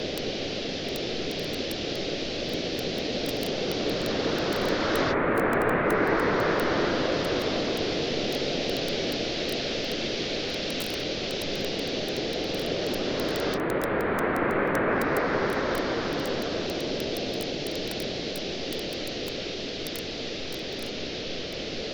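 Waves on a beach, a steady wash that swells twice, about five and fourteen seconds in, with many small sharp pops from a crackling wood campfire.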